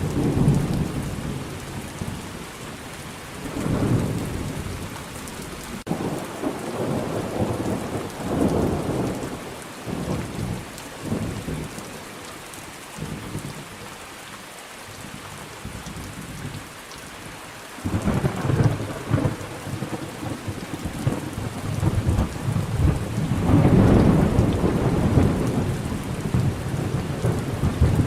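Thunderstorm: steady rain falling, with thunder rumbling and rolling in repeated swells, the heaviest roll building about two-thirds of the way through.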